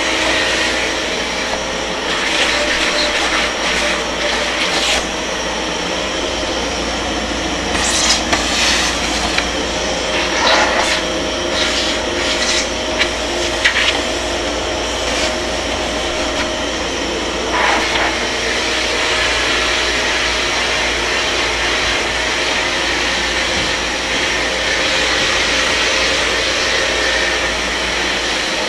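Kärcher MV 6 P Premium wet-and-dry vacuum cleaner running steadily, with short louder scrapes and knocks scattered through the middle as the nozzle works over the floor.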